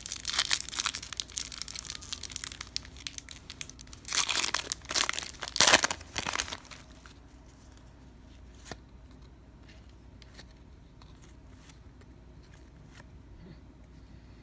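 A trading-card pack wrapper being torn open and crinkled, with the loudest crackling bursts about four to six and a half seconds in. After that only a few faint ticks of cards being handled are heard.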